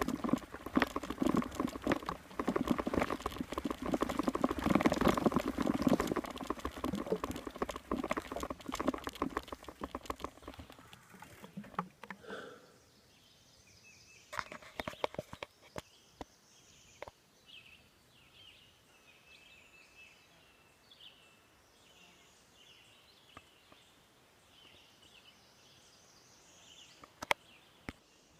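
Bicycle rattling and crackling over sticks and brush while being ridden off-trail, a dense run of rapid clicks and knocks lasting about ten seconds. After that it goes mostly quiet, with scattered single clicks and faint short high chirps.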